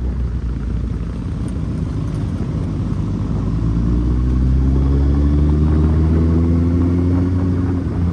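Kawasaki Z800's inline-four engine running under way, its pitch rising steadily as the bike accelerates, then dropping briefly near the end.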